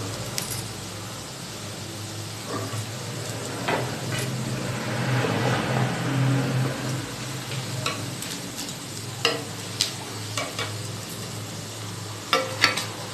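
Chicken pieces deep-frying in hot oil with a steady sizzle, and a metal ladle clinking against the pan a few times in the second half.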